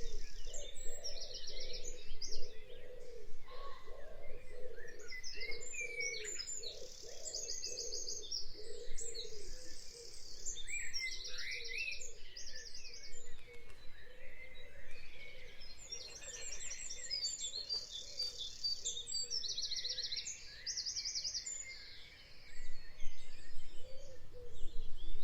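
Birds singing: repeated fast trills and short chirps, several calls overlapping, over a steady lower pulsing sound.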